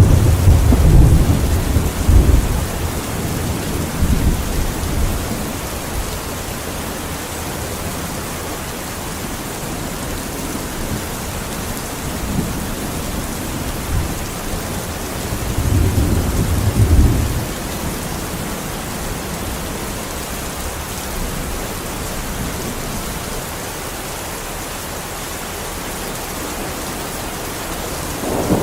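Steady rain falling, with low rolls of thunder: a loud rumble in the first few seconds, another about halfway through, and the start of a third right at the end.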